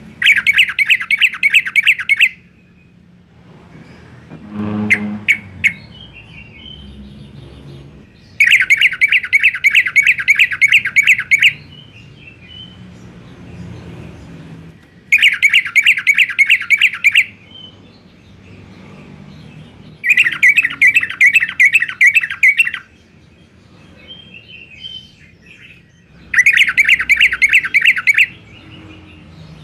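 Yellow-vented bulbul (trucukan) singing hard: five loud bursts of rapid, repeated chattering notes, each two to three seconds long, with pauses between. A short lower sound with a few sharp clicks comes about five seconds in.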